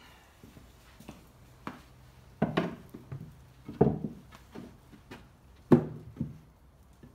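Wooden pallet boards being handled and knocked: a few separate sharp knocks, the loudest about two and a half, four and six seconds in.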